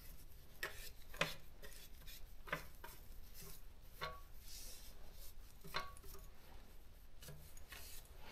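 Faint, scattered light knocks and clicks, with soft rubbing, from a Daro 20 typewriter being handled and wiped during cleaning.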